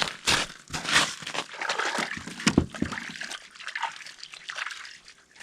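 Irregular splashing and sloshing of water mixed with rustling and scraping handling noises, as pike are pulled from the tip-up holes and bagged.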